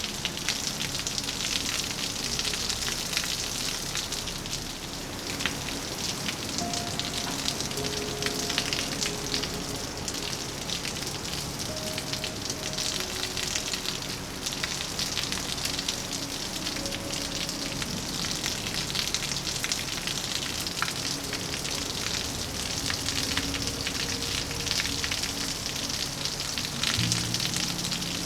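Steady rain falling, a dense hiss with many individual drops ticking. Faint, slow sustained notes of soft background music run underneath.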